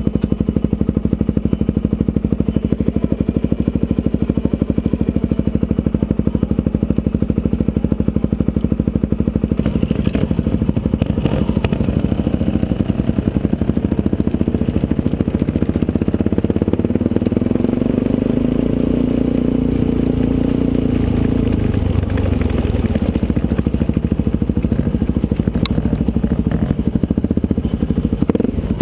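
Suzuki DR-Z400SM single-cylinder four-stroke engine running at low, steady revs, with the engine note climbing for a few seconds a little past the middle before settling again.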